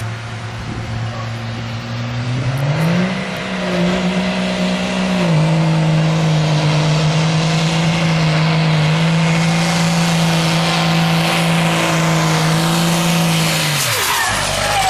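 12-valve Cummins diesel truck engine held at high revs through a burnout, with the spinning tyres hissing on wet pavement. The revs climb about two to three seconds in, ease back a little about five seconds in and hold steady, then drop off sharply near the end as the throttle is let go.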